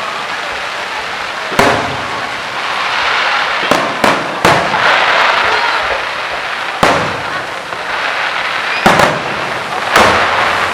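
Fireworks display: about eight sharp bangs of bursting shells at irregular intervals, some in quick pairs, with a steady crackle of sparkling effects between them.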